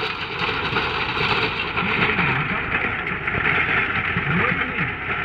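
Tractor engine running steadily under load while pulling a rotavator through the soil, a dense continuous mechanical noise.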